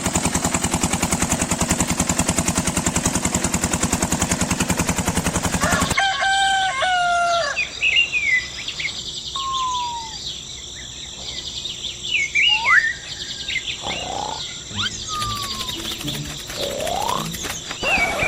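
A small engine running with a rapid, even clatter, which cuts off suddenly about six seconds in. A rooster crows, and birds keep calling with short gliding whistles.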